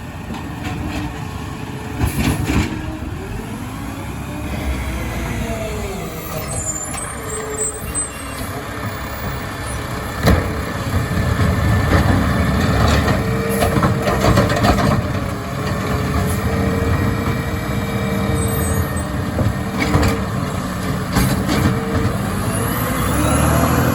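Mack LR garbage truck with a McNeilus ZR automated side-loader body running and working a pickup, with several sharp knocks. A steady whine holds for several seconds midway.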